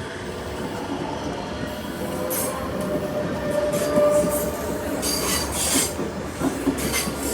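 A train running past a level crossing: a steady rumble of wheels on rail that grows louder. Brief high-pitched screeching bursts come in about two seconds in and again in the second half.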